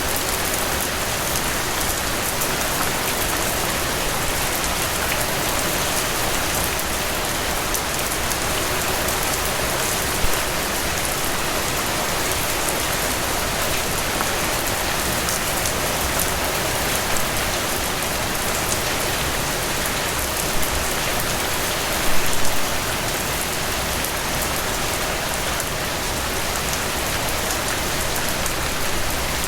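Heavy rain falling steadily, a dense even hiss with a few sharper drop hits now and then, the loudest a short cluster about 22 seconds in.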